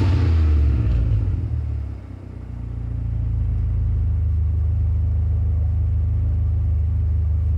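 2015 Ford Fusion's 1.5 L turbocharged four-cylinder through a muffler-deleted exhaust, dropping back from a rev and settling to a steady, low idle about two seconds in.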